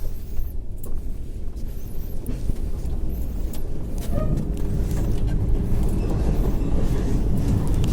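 Moving passenger train heard from inside a coach: a steady low rumble of wheels on rails with scattered short clicks and rattles, growing louder about halfway through.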